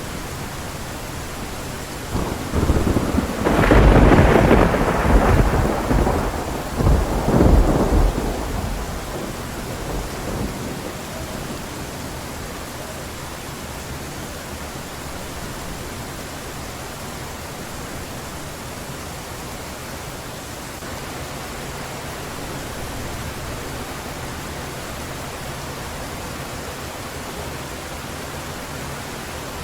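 Heavy rain falling steadily with a loud roll of thunder. The thunder breaks about two seconds in, peaks twice and rumbles away over several seconds, leaving the even hiss of rain.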